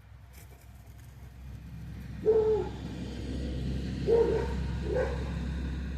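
A dog gives three short barks, about two, four and five seconds in, over the low rumble of a car approaching and growing louder.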